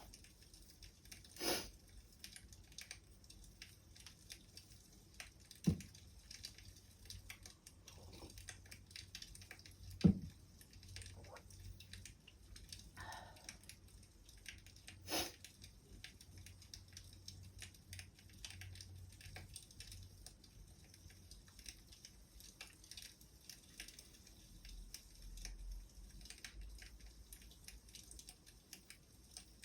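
Wood fire crackling: a steady patter of small crackles with a few louder pops, the loudest about ten seconds in.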